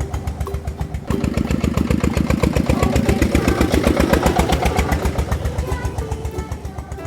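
Tractor engine running with a fast, even chugging beat. It gets louder about a second in and fades away near the end.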